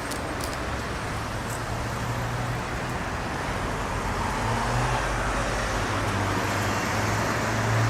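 Steady urban road traffic: cars passing with a low engine hum that grows a little louder in the second half.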